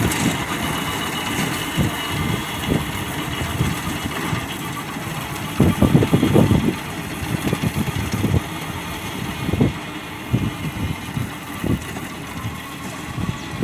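Fiat 640 tractor's diesel engine running, with irregular low thumps, the heaviest about six seconds in.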